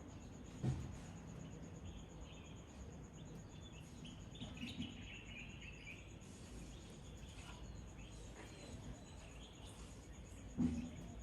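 Outdoor nature ambience: birds chirping on and off over a steady high insect trill. Two dull thumps stand out, about half a second in and near the end.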